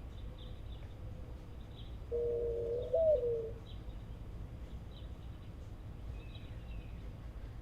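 A dove cooing once: a single low call about a second and a half long that steps up in pitch near its end and falls away. It sits over a steady low rumble, with faint high ticks.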